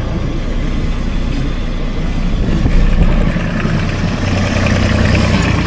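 Engine of a piece of farm equipment running steadily, briefly louder about three seconds in.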